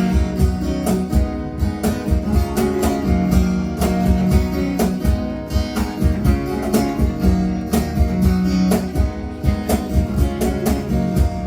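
Acoustic guitar strumming the instrumental intro of a song, with a cajon keeping a steady beat of sharp hand strikes.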